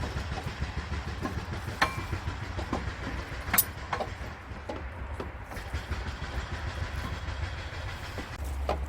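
Sharp metal clinks and knocks, a few seconds apart, as a truck engine camshaft is worked into place by hand, over a steady low rumble.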